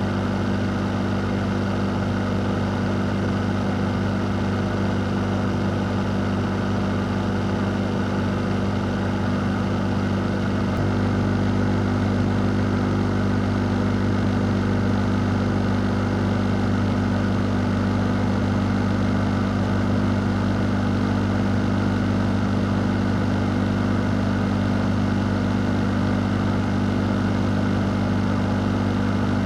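A fan running steadily: a constant airy whir over a low motor hum, unchanging throughout.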